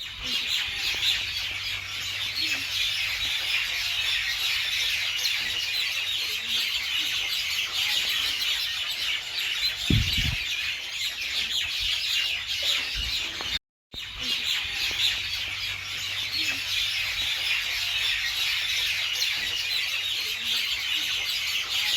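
A dense chorus of many small birds chirping at once, with a short low thump about ten seconds in. The chorus cuts out for a moment about two-thirds of the way through, then resumes.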